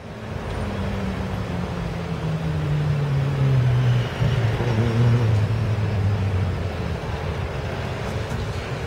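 Lamborghini Gallardo LP570-4 Superleggera's V10 running at idle. Its pitch sinks slowly over the first several seconds, then holds steady.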